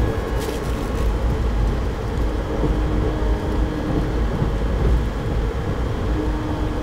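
Passenger train running along the line, a steady low rumble heard from inside the carriage.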